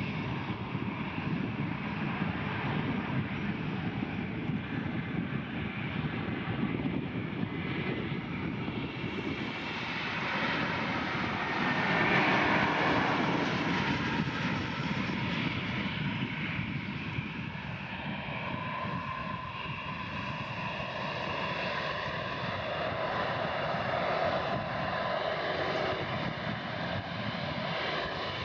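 Airbus A320neo jet engines on a landing pass: a steady rush with a whining note that builds to its loudest about twelve seconds in, then slowly fades.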